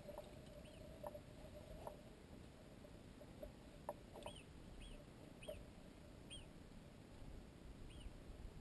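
Near silence, broken by faint, short rising-and-falling bird chirps about once a second, mostly in the second half, and a few faint clicks.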